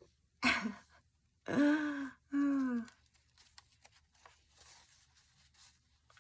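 A woman's breathy sigh followed by two short voiced groans, the sounds of effort as she struggles to pick up a heavy handmade journal. Faint paper rustles and small clicks follow.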